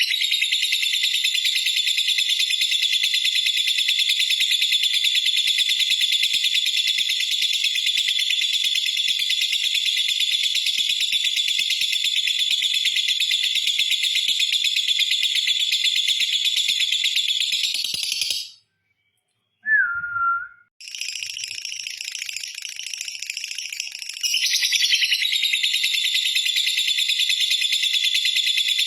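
Lovebird's long 'ngekek' chatter: a shrill, rapid, unbroken trill held for many seconds. It breaks off about two-thirds through, with one short lower call, goes on more quietly for a few seconds, then comes back loud near the end.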